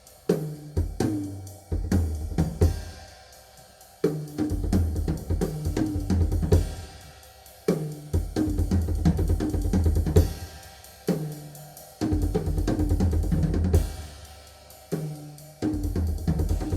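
Recorded music with a drum kit and heavy bass, played back through B&W Nautilus 802 loudspeakers and picked up by a phone's microphone. The drumming comes in stop-start phrases, with several short breaks where the sound dies away.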